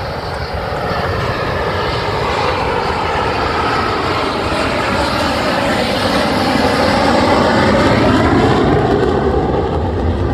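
Airplane engine of an aircraft making a slow pass, heard continuously and growing louder as it comes closer, its pitch gliding.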